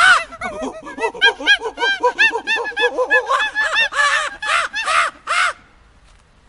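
A flock of birds calling, many short arched calls overlapping in a dense chorus, which stops suddenly about five and a half seconds in.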